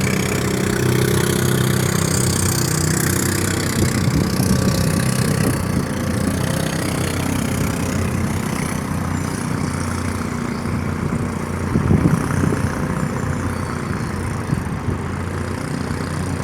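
Tugboat diesel engine running steadily with a low hum, and a brief louder rush about twelve seconds in.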